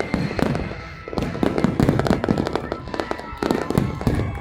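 Fireworks display: rapid, overlapping bangs and crackles of bursting shells, easing off briefly about a second in, then dense again.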